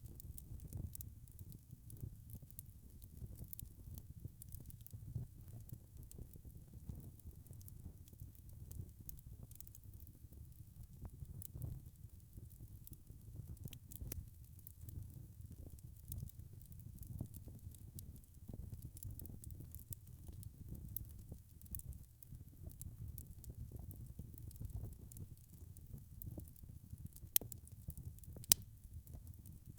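Log fire burning in a fireplace: a low steady rumble of flames with frequent small crackles, and two louder pops near the end.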